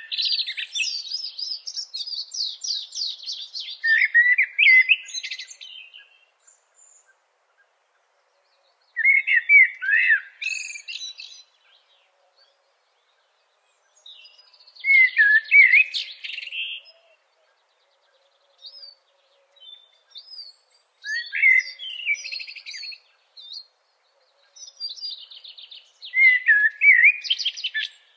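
A songbird singing in separate phrases of rapid chirps and trills, each two to three seconds long, repeated every five seconds or so with quiet gaps in between.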